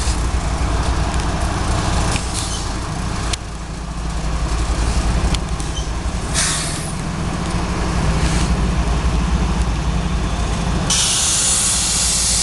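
A slow freight train's diesel locomotives rumble past steadily, with a few sharp clicks along the way. A loud hiss begins about eleven seconds in and carries on to the end.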